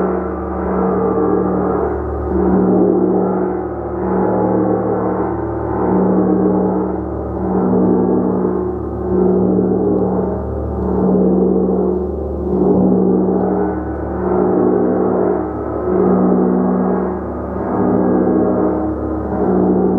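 A gong humming in a continuous, dense wash, its strong low hum swelling and easing in steady waves about every two seconds as it is kept sounding.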